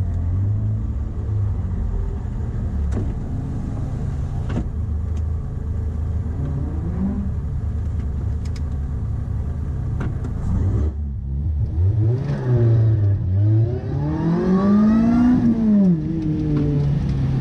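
Lotus Elise's four-cylinder engine idling before a standing start, with one brief blip and a few sharp clicks. About eleven seconds in it launches and revs hard up through the gears, its pitch climbing, dropping at each upshift and climbing again. Heard from inside the cabin.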